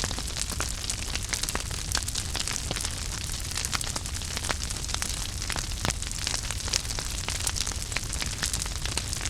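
Wood fire burning in a fireplace, with many sharp, irregular crackles and pops over a steady hiss and low rumble of the flames.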